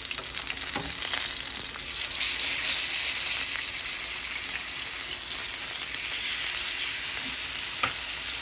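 Chicken breast searing in a hot pan, sizzling steadily, the sizzle swelling about two seconds in. A couple of light clicks come through the sizzle.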